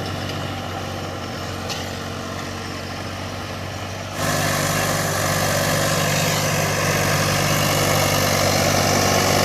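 Mahindra 295 DI Turbo tractor's diesel engine running steadily. About four seconds in it suddenly gets louder and stays louder.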